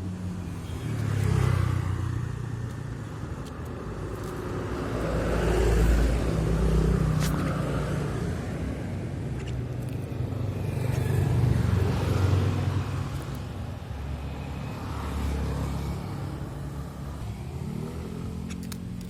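Road vehicles passing by: a low rumble that swells and fades several times, loudest about six and twelve seconds in.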